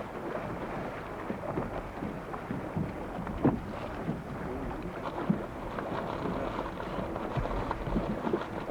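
Wind buffeting the microphone over a steady wash of water noise aboard a small boat, with a few short knocks.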